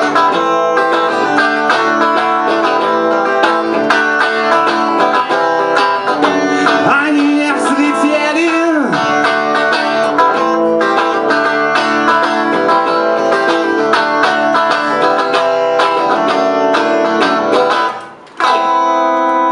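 Guitar strummed in a steady rhythm through an instrumental passage between verses of a song. The playing breaks off briefly near the end, then resumes.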